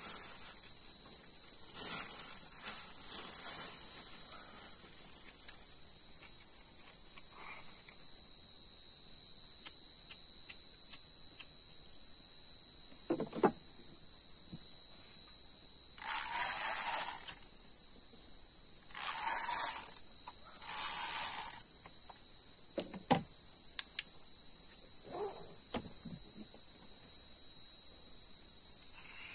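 Steady high-pitched chorus of night insects such as crickets. A few sharp clicks are scattered through it, and three short, harsh bursts of noise come about two seconds apart midway and are the loudest sounds.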